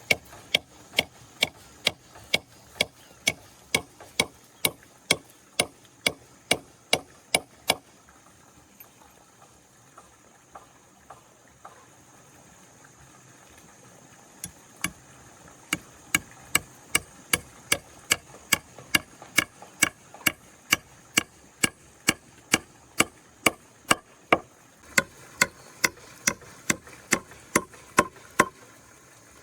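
Sharp, regular strikes of a hand tool, about two a second, stopping for several seconds in the middle and then starting again.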